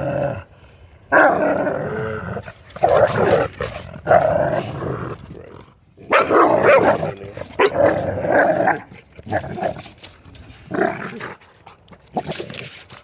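Dogs growling in repeated rough bouts of a second or so each, with quieter gaps between them.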